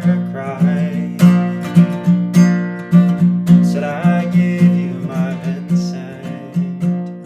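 Acoustic guitar playing an instrumental passage with no vocals, with picked or strummed accents at a steady beat under a melody line.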